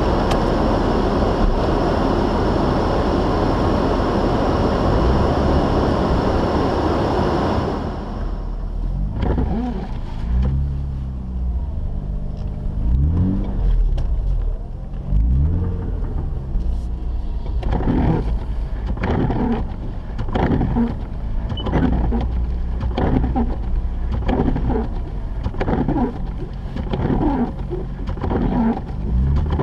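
Mazda RX-8's rotary engine rising and falling in pitch as the car pulls away and changes speed. A loud rushing noise fills the first several seconds and then drops away. Later a regular pulsing repeats about once or twice a second over the engine.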